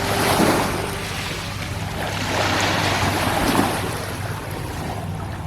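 Small waves washing at a lakeshore with wind on the microphone, the rush swelling and fading a few times.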